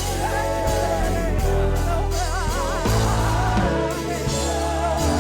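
Live gospel praise-and-worship music: a band with bass and cymbals playing under a singer's held, wavering vibrato notes.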